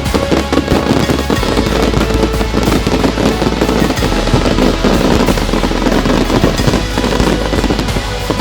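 Fireworks going off in rapid, dense crackles and bangs, mixed with loud background music that has a steady deep bass.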